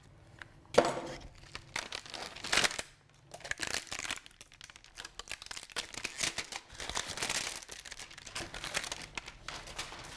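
Packaging crinkling and tearing by hand as a hydrofoil wing is unwrapped, irregular rustling with sharper rips about a second and two and a half seconds in.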